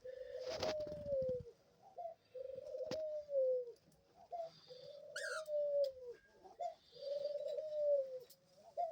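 A pet dove bowcooing: the same coo repeated about every two seconds, each call a steady note of over a second that dips at its end, with a few light clicks between. This is the courtship bowcoo, which the owner takes as a sign she is pining for a mate.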